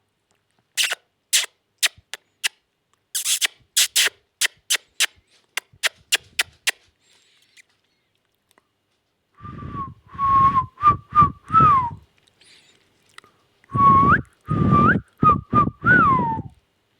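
A quick run of sharp clicks for the first several seconds, then a short whistled tune of several notes, repeated twice with the same shape, the notes sliding up and down.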